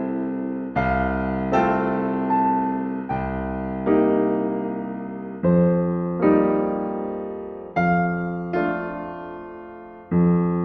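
Gentle, slow solo piano music: chords struck about once a second or so, each ringing and dying away before the next.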